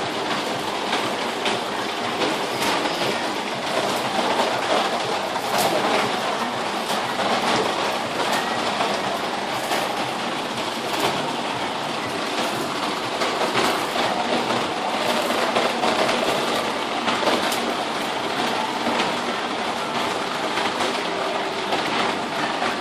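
Heavy rain pouring down steadily, with sharp irregular splats of drops striking hard surfaces.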